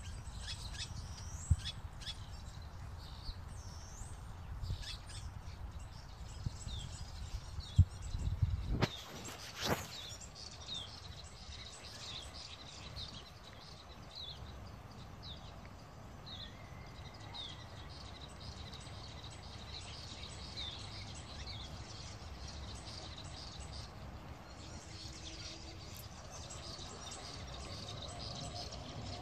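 Birds chirping in short, repeated high calls, with a low rumble and a few sharp bumps in the first nine seconds or so.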